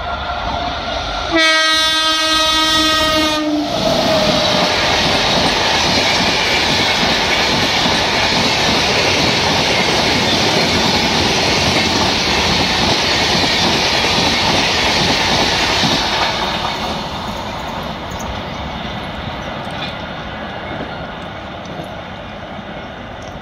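Electric locomotive's horn blowing one long blast about a second and a half in, as the Uday Express double-decker train runs through the station without stopping. The coaches' wheels on the rails then make a loud steady rumble for about twelve seconds, fading over the last several seconds as the train moves away.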